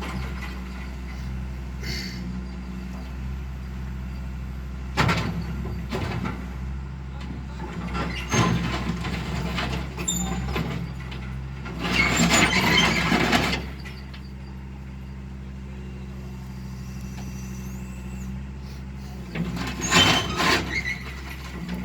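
Heavy diesel engine of an excavator running steadily during unloading from a lowboy trailer, with several louder bursts of hissing and knocking on top; the longest hiss lasts about a second and a half, around the middle.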